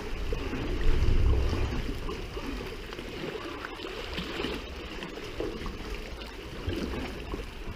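Water trickling and lapping around a sea kayak: an uneven burble with small drips and splashes, and a low rumble about a second in.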